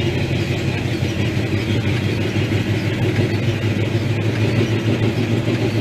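Truck driving along at a steady speed: a steady engine hum with road noise.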